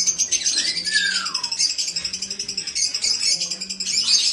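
Many cage birds chirping and chattering continuously in quick, high notes, with one clear whistle gliding downward about a second in.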